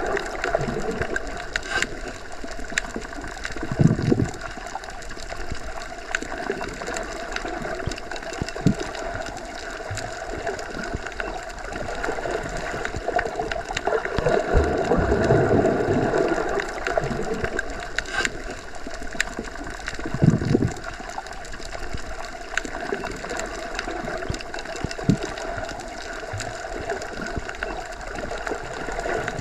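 Underwater ambience as heard when submerged: a steady wash of water noise with a few low surges and scattered faint clicks.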